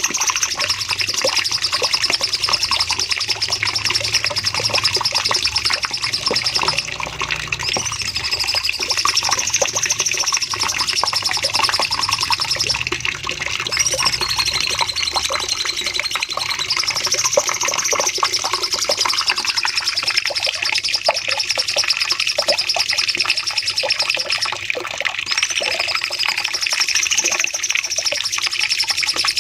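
Cucak cungkok songbird singing a long, unbroken stream of fast high-pitched chirps and trills, with the same arching whistled phrase coming back every few seconds.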